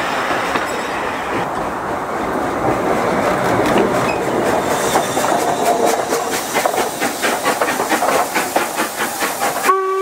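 Train running past with its wheels clattering rhythmically over the rail joints, about four beats a second. Near the end a steam locomotive's whistle starts abruptly and holds a steady note.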